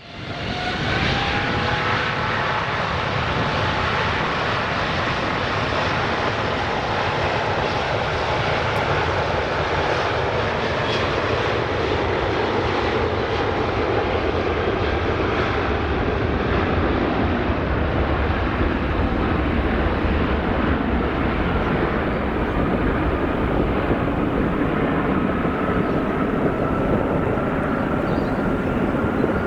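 Airbus A350-900's Rolls-Royce Trent XWB turbofans at takeoff thrust: a steady, loud jet roar with faint whining tones, one of them slowly rising in pitch near the end.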